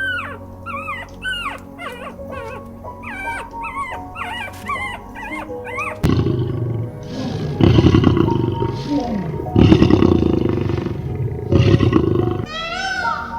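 Animal calls over background music: many quick chirping calls at first, then, about six seconds in, a series of loud, rough calls roughly two seconds apart.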